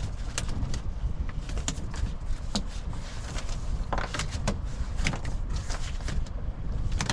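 A landed shark thrashing on a boat deck: irregular knocks and slaps over a steady low rumble.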